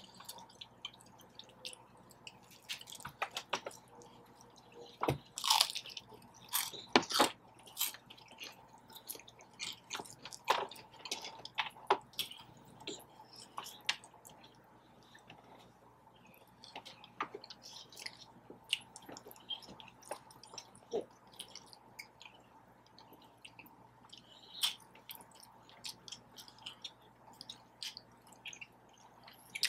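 Close-miked eating sounds: irregular wet chewing and mouth smacks, with scattered short clicks and crunches.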